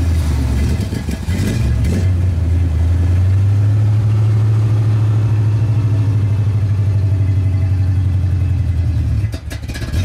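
1990 Chevrolet Caprice Classic's engine idling, with a low, steady exhaust note. It runs a little unevenly at first, then holds steady, and dips briefly near the end.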